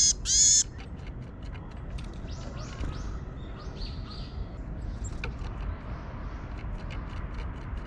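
Small tits at a sunflower-seed feeder calling: two loud nasal calls right at the start, then a run of softer high chirps over the next few seconds. Scattered light ticks sound over a steady background hiss.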